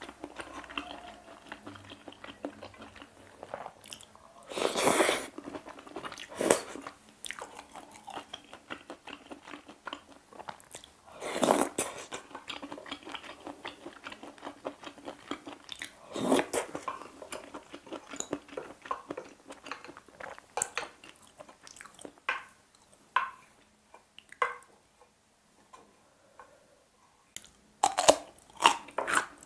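Close-miked eating sounds: chewing seafood pasta and shellfish, with a few louder bursts along the way, then crisp crunching bites into chonggak (ponytail radish) kimchi near the end.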